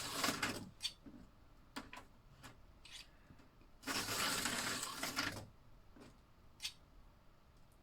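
Small electric motor of a vintage Tyco slot car whirring in two short runs, about a second at the start and a second and a half near the middle, with light plastic clicks between as the car is set back on the track. The car keeps coming off at the corners.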